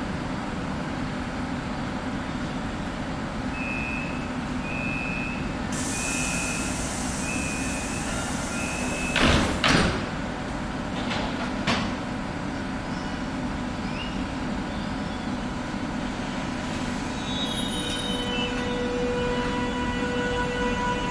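SBB ICN tilting electric train at a platform: a hum under a string of door-warning beeps and a hiss, then its sliding doors shut with two knocks and a couple of smaller ones. Near the end the electric drive's tones rise as the train starts to move off.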